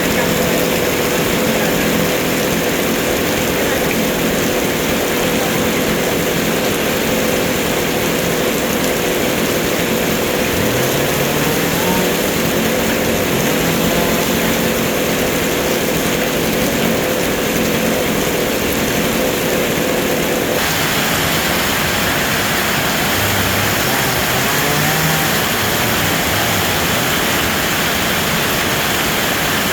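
A motor runs with a steady hum under a constant rushing noise. The hum cuts off suddenly about twenty seconds in, and the rushing noise carries on.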